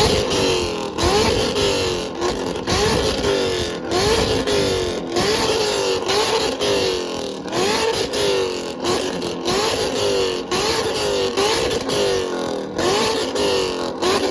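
A C7 Corvette's V8 revved over and over in a rev battle, the pitch jumping up and dropping back about once a second.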